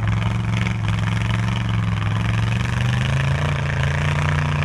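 Derby truck engine running loudly at a steady speed, its pitch stepping up about three seconds in as it revs higher.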